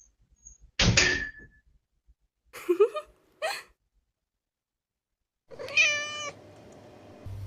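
A thump, then short cat meows: two brief ones followed by a longer one.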